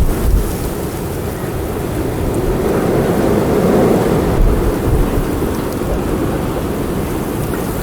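Strong wind gusting, with a deep rumble of wind buffeting the microphone; it swells a few seconds in and then settles back.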